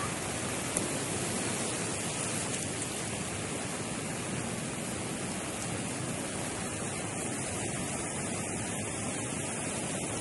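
Steady rushing of water, an even hiss with no breaks or rhythm.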